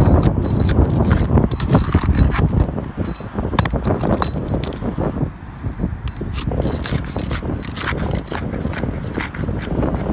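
Flat pry bar working under asphalt shingles to pop the roofing nails loose: many sharp metal clicks and scrapes at an uneven pace, with wind buffeting the microphone.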